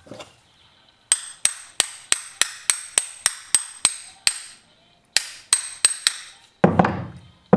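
A hammer tapping metal in quick sharp strikes, fitting a tight crankshaft bearing into a Husqvarna 240 chainsaw's crankcase: a run of about a dozen ringing taps, a short pause, a few more taps, then a heavier dull knock near the end.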